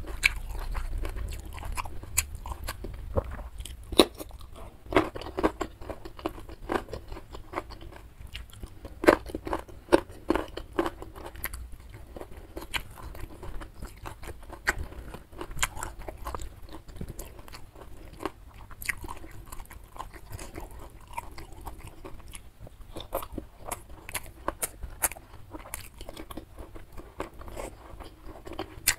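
Close-miked eating: crunchy bites into raw young jengkol beans and steady chewing, with wet mouth clicks. The crunches come thickest in the first dozen seconds and thin out to softer chewing after.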